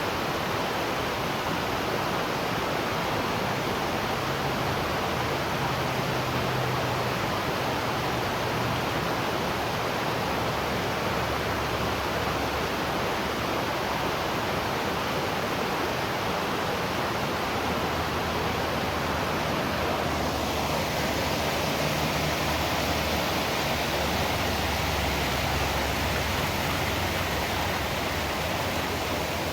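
Waterfall rushing: a steady, even roar of falling water that turns a little hissier about twenty seconds in.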